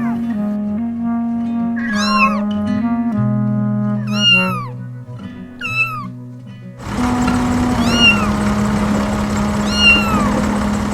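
Cat meows, about five short calls that rise and fall in pitch, over a gentle background music track. About seven seconds in, a steady hiss comes in under the music.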